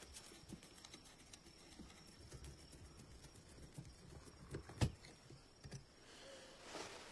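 Faint, scattered clicks and taps of hands working with small metal parts, with one sharper knock about five seconds in and a brief rustle near the end.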